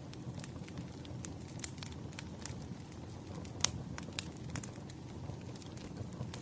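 Campfire crackling: irregular sharp pops and snaps over a steady low rumble, with one louder pop a little past halfway.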